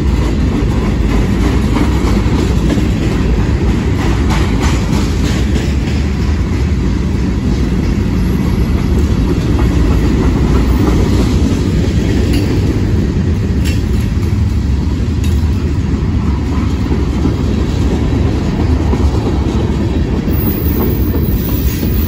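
Freight cars of a mixed freight train rolling past, tank cars, covered hoppers and coil cars among them: a steady, loud rumble of steel wheels on the rails, with clicks from time to time as the wheels cross rail joints.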